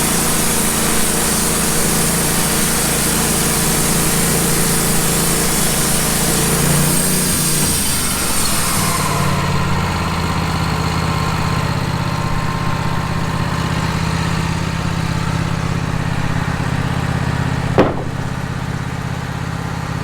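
Wood-Mizer LT15 bandsaw mill cutting through a log with a new band blade, its engine running under load with a high hiss from the cut. About eight seconds in the cut ends: the hiss drops away and the engine runs on at a steadier, lower note, with a single sharp knock near the end.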